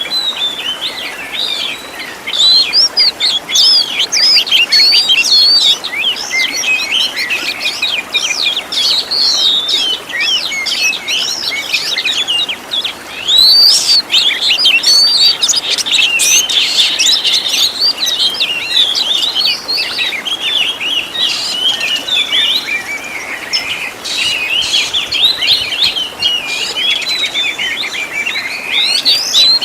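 Oriental magpie-robin (kacer) singing a loud, continuous, fast song of varied chirps, whistles and trills with hardly a pause, the rapid 'tembakan' bursts and mixed-in 'isian' phrases used in a bird-training recording.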